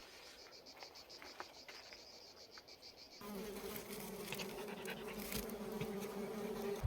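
Forest insects. First comes a fast, even high-pitched chirring like a cricket's. About three seconds in, this gives way abruptly to a steady low buzz of a flying insect such as a bee or fly.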